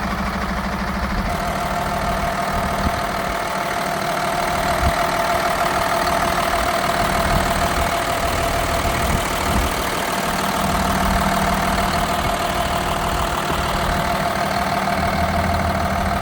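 Hino 268A's 7.6-litre six-cylinder diesel engine idling steadily and evenly, running well.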